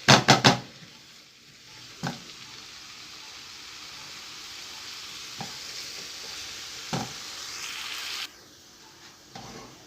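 Chopped onion frying in oil in a pan: a steady sizzle, stirred, with a few knocks of the utensil against the pan. It opens with a short loud clatter, and the sizzle cuts off suddenly near the end.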